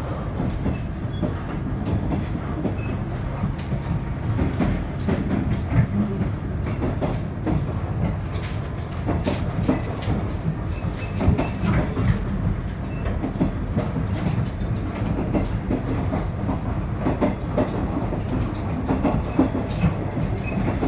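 Inside a KiHa 110 series diesel railcar under way: a steady low rumble from the running train, with irregular clicks and knocks as the wheels pass over rail joints.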